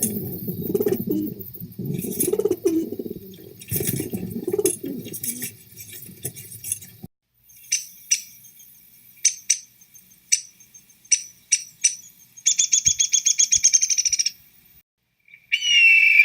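Wild birds calling: a string of sharp, separate chirps, then a rapid trill lasting about two seconds, and another call near the end. This follows an uneven low rumble that cuts off abruptly about seven seconds in.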